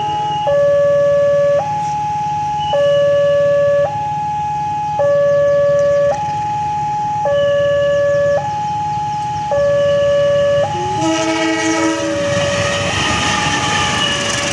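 Railway level-crossing warning alarm sounding a steady two-tone hi-lo signal, each tone about a second long. About 11 s in a train horn sounds briefly and a passing train's rumble takes over, with the alarm still going underneath.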